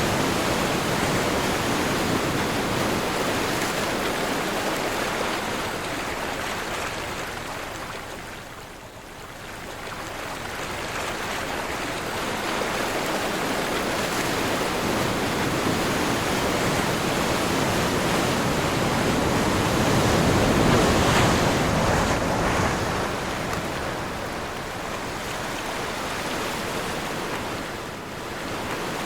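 Ocean surf breaking and washing in wind, a steady rush that swells and ebbs: it fades about a third of the way in, then builds to its loudest surge about two-thirds through.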